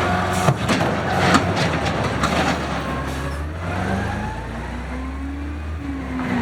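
Automated side loader garbage truck's engine running, with several sharp metal clanks in the first half. The engine pitch then rises steadily over a couple of seconds near the end.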